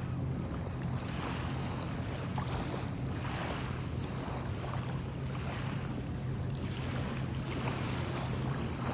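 Small bay waves washing onto the sandy shore in irregular swells, over a steady low hum.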